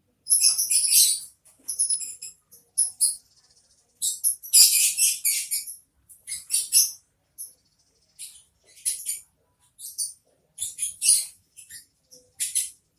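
Sparrows chirping in quick, high-pitched bursts, with gaps between them and the loudest, densest run of chirps about four to six seconds in.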